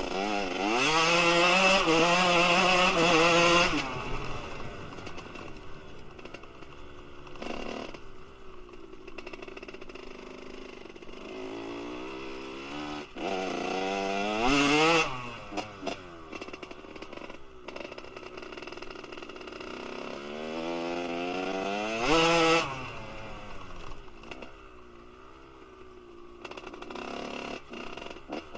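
Kawasaki KX125 single-cylinder two-stroke engine with a Pro Circuit R-304 shorty silencer, revving up three times from a low idle. At the start it rises and holds high for about three seconds, then drops back. Shorter rises peak about halfway through and near the end, each falling back to idle.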